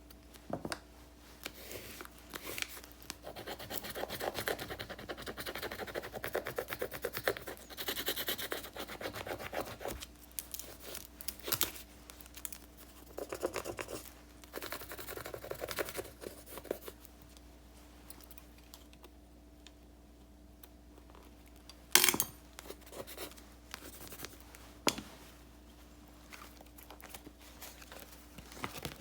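Close-up paper-crafting sounds of stickers and paper being handled: bursts of scratchy rustling, peeling and rubbing, then two sharp clicks later on.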